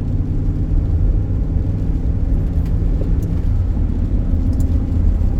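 Car driving at highway speed, heard from inside the cabin: a steady low road and engine rumble, with a few faint ticks.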